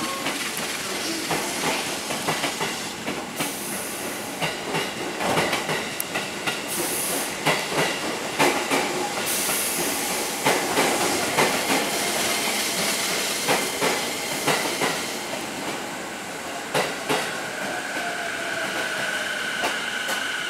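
Electric train moving along the station platform, its wheels clacking over rail joints with irregular clicks over a steady rumble. Near the end a falling whine and a steady high-pitched tone come in.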